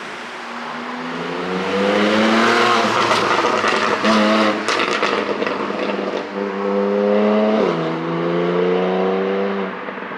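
Porsche 718 Boxster GTS 4.0 flat-six engine revving up hard, with crackles and pops from the exhaust when the throttle lifts about three to five seconds in, the effect of an ECU pop-and-crackle tune. It then pulls through the gears again, with a quick upshift near the end.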